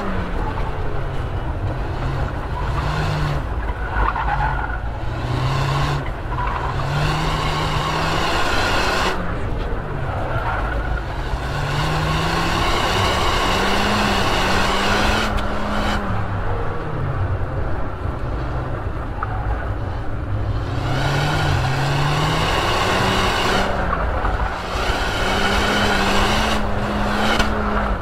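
Ford Fiesta ST's 1.6-litre turbocharged four-cylinder engine revving hard near the top of its range, its pitch rising and falling again and again with throttle changes. The tyres squeal on and off through the corners.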